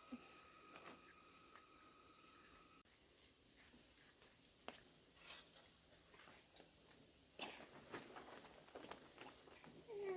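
Faint, steady high-pitched chirring of crickets, with a few soft knocks and clicks about a second in, near the middle, and about seven seconds in.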